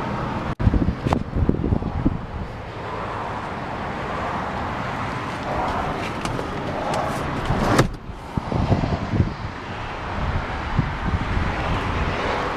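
Outdoor road traffic noise, a steady low rumble of passing cars, with wind on the microphone and scattered knocks from handling.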